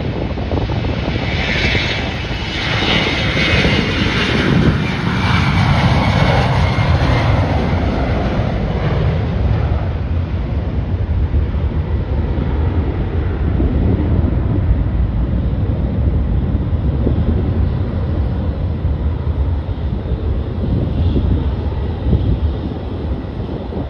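Airliner passing close by at the airport: its engine whine sweeps down in pitch as it goes past, leaving a steady low rumble.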